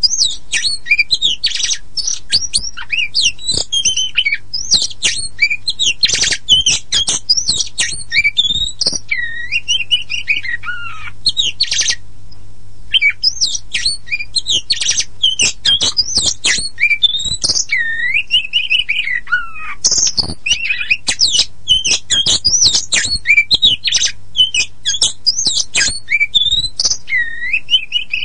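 Oriental magpie-robin of the black-and-white kacer poci form singing a long, varied song of fast whistles, sweeping glides and sharp chattering notes, with a brief pause about twelve seconds in.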